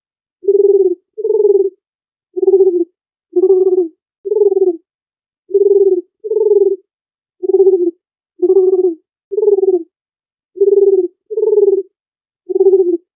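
Dove cooing: a series of short, low coos, each about half a second, in groups of two or three, with dead silence between them.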